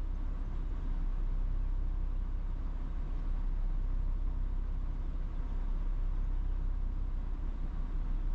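Steady low outdoor rumble with no distinct events, the kind heard from distant traffic or a rail yard.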